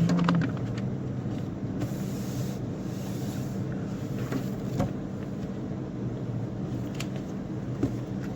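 Steady low drone of a motor vehicle running, with a few sharp clicks and knocks.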